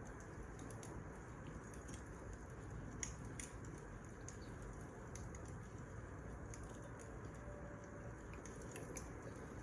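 Wood fire crackling: scattered irregular small pops and snaps over a faint steady low rumble of burning logs.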